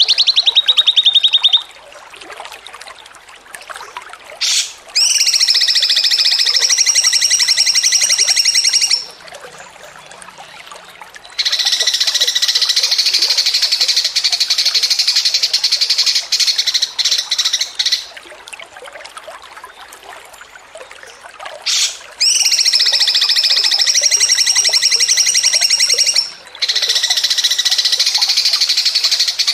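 Songbird giving long, rapid, buzzing trills, each lasting several seconds and repeated about five times, with quieter scattered chirps in between.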